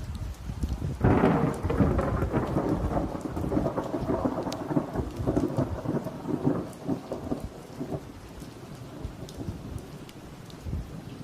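A thunderclap breaks about a second in and rolls on as a crackling rumble that fades away over the next six seconds or so, with rain falling steadily.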